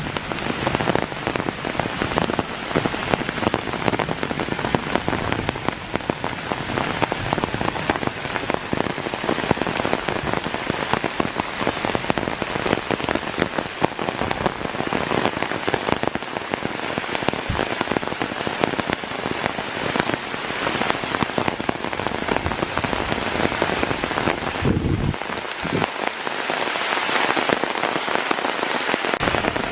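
Heavy rain falling, a dense patter of countless drops. About 25 seconds in, the low rumble under it drops away and the patter sounds thinner and higher.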